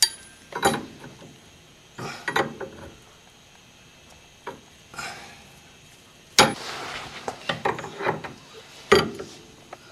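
Metal tools and parts clinking and knocking in irregular bursts of short clatters while work goes on at a car's front suspension, the loudest clatter about six and a half seconds in.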